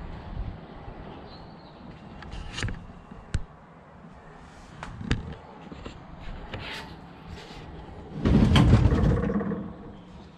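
Handling noises from a portable fridge and its packaging being moved about: scattered light clicks and knocks, then a louder noisy stretch lasting about a second and a half near the end.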